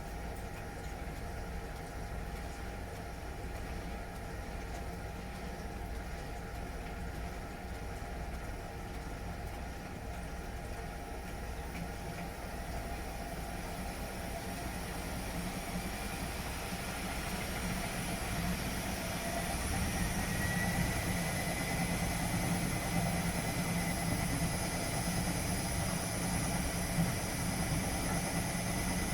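Washing machine running with a steady motor hum. From about halfway through, a whine climbs in pitch and the sound grows louder as the drum speeds up toward a spin.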